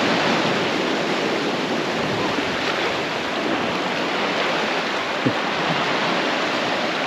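Ocean surf on a beach, a steady rushing wash of waves.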